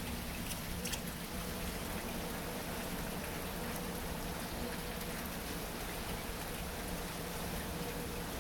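Heavy rain pouring steadily, a constant hiss with drops pattering on surfaces.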